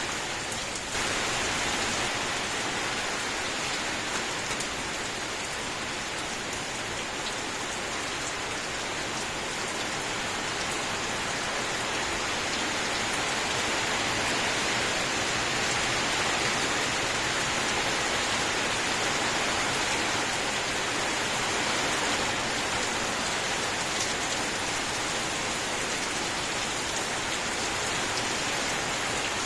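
Steady rainfall, an even hiss of many falling drops, stepping up slightly in level about a second in.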